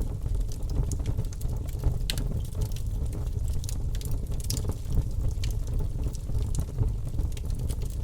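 Wood logs burning in a fireplace: a steady low rumble of the flames with scattered crackles and pops.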